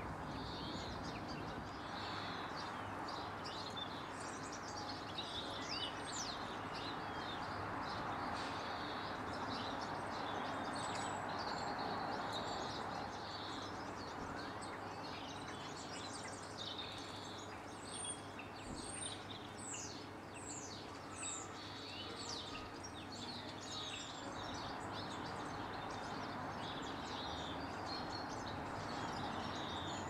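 Garden birds chirping, with many short high calls and quick falling notes, over a steady background rush of noise.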